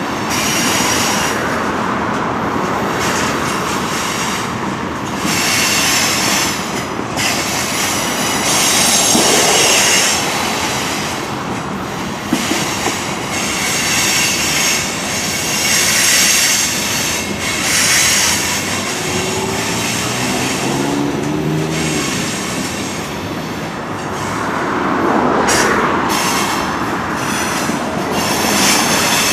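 Mixed freight train cars rolling past, their wheels rumbling and clacking over the rail joints, with high-pitched wheel squeal that comes and goes every few seconds.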